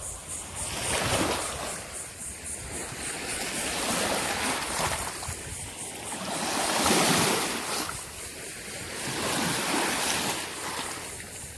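Small waves washing in at the shoreline, the rush swelling and fading about every two to three seconds.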